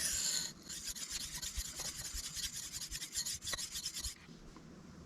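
Steel knife blade being stroked across a sharpening stone: a long scraping stroke, then quick, short back-and-forth rubbing strokes that stop about four seconds in.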